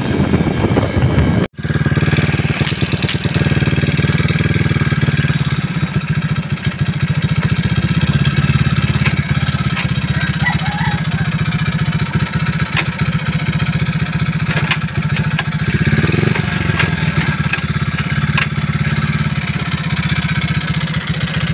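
Honda EX5 Dream underbone motorcycle's single-cylinder four-stroke engine: wind rushing on the microphone while riding, then after a sudden cut about a second and a half in, the engine idling steadily.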